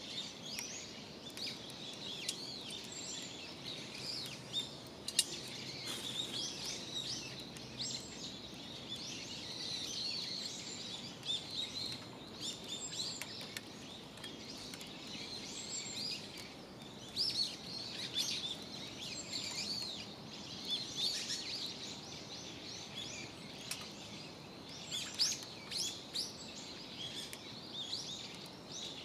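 Small birds chirping and calling busily and without pause, with a sharp click about five seconds in.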